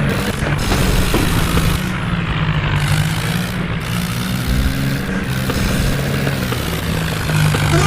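Tractor diesel engine running steadily, its pitch shifting a little.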